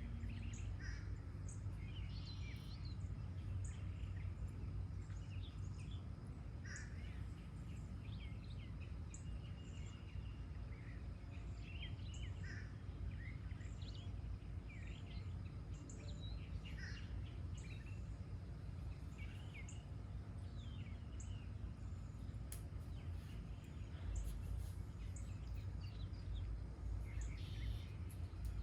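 Several wild birds singing and chirping, many short calls and quick rising and falling notes overlapping throughout, over a steady low rumble.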